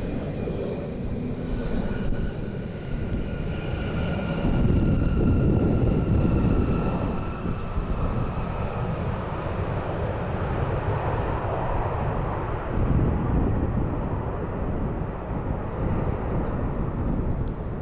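Jet aircraft engines at the airport: a deep rumble that holds throughout, with a faint high whine from about a second and a half in until around eight seconds.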